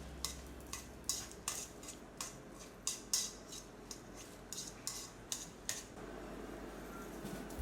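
A metal utensil clinking and scraping against a dish in quick repeated strokes, roughly twice a second, that stop about six seconds in.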